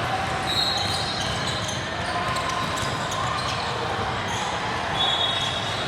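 Basketball game in a gym: a basketball bouncing and short high squeaks over a steady din.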